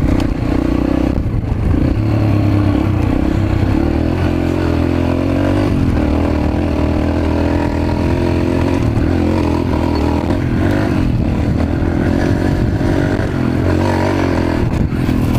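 Mini bike's small engine running steadily under way, its pitch rising and falling slightly with the throttle, with a brief dip about a second in.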